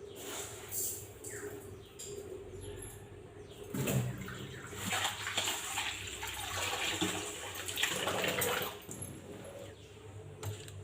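Water running and splashing, louder for about five seconds in the middle, over a quieter background with short falling chirps.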